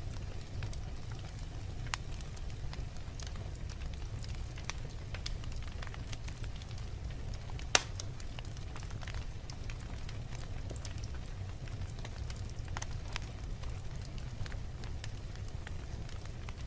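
Fire burning in a fireplace, crackling with scattered small pops over a steady low rumble, and one sharp, much louder pop near the middle.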